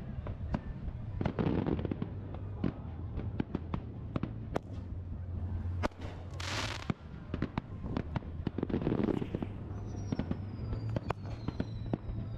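Fireworks display: many aerial shells bursting with sharp bangs, crackles and deeper booms. A rush of hiss comes about six seconds in, and thin falling whistles sound near the end.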